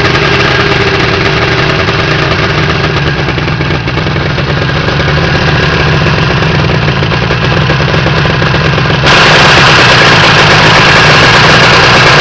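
Homemade motorcycle's IZH two-stroke engine idling steadily. About nine seconds in the sound suddenly gets louder, with a harsh hiss added.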